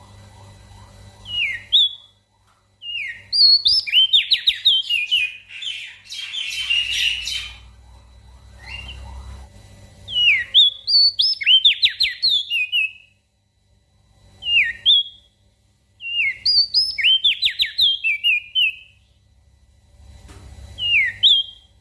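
Crested dark-eye (opior jambul) singing: bouts of quick, downward-sweeping whistled notes, some phrases short and single, others run into rapid trills, repeated with short pauses between them.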